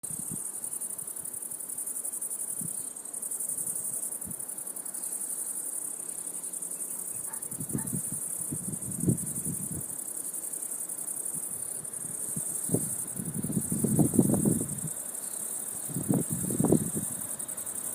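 Crickets chirping steadily in a continuous high trill. From about eight seconds in, irregular low gusty rumbles come and go several times.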